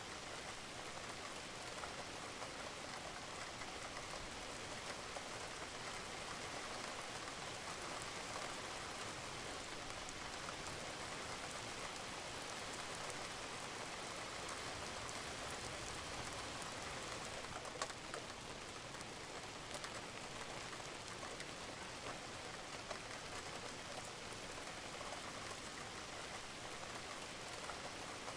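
Steady rain falling on a roof, with a few separate drops ticking through the hiss, one a little louder about two-thirds of the way in.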